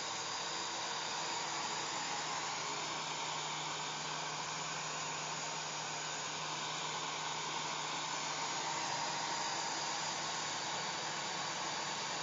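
Hair dryer running steadily: a constant airy rush with a faint steady hum from its motor.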